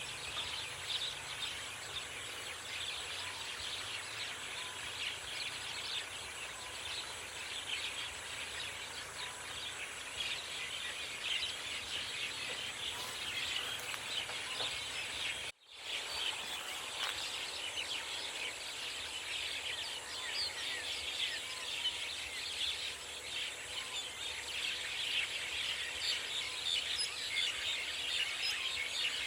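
A dense chorus of many forest birds chirping and singing over a steady background hiss. About halfway through, the sound cuts out completely for a split second, then resumes.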